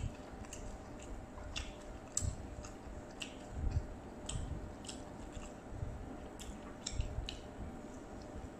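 Close-up mouth sounds of someone chewing a mouthful of crackers and fried noodles: irregular crisp clicks and small crunches with soft wet squelches, a few every couple of seconds.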